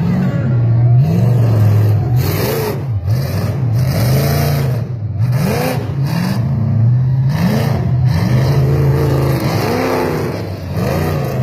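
Monster truck engine revving hard over and over, its pitch climbing and falling about once a second.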